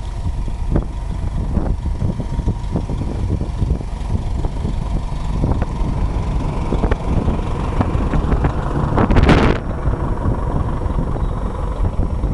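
Wind buffeting the microphone over a steady low rumble, with a louder rushing gust about nine seconds in.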